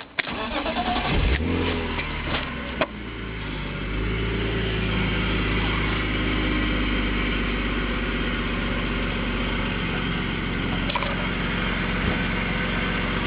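BMW E36 M3's S52 straight-six engine cranked by the starter and catching about a second in. It runs unevenly for a few seconds, then settles into a steady idle.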